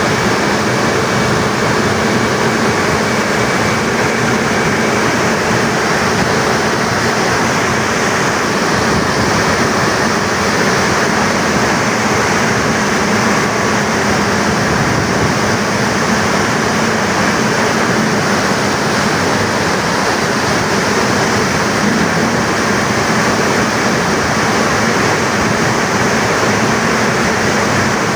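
Heavy water rushing steadily through Tarbela Dam's open service spillway, with no change in level.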